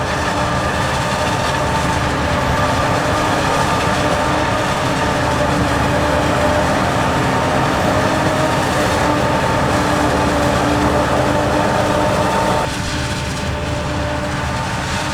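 Heavy farm machinery running steadily under load: a diesel drone with a steady whine over it. The sound drops abruptly in level near the end.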